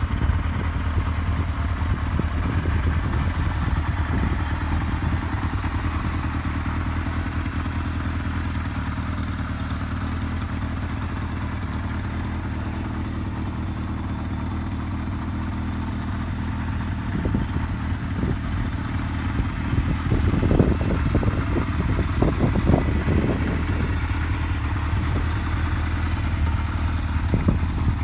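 1986 Kawasaki GT750's air-cooled inline-four engine idling steadily, with a few short louder, rougher stretches about two-thirds of the way through.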